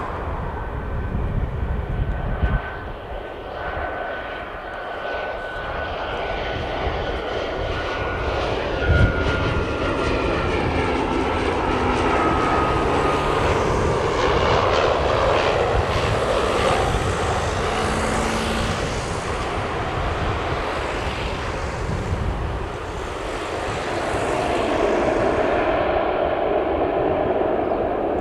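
Propeller-driven light aircraft passing by, its engine noise swelling to a peak midway and easing off. A high whine slides slowly down in pitch as it goes past.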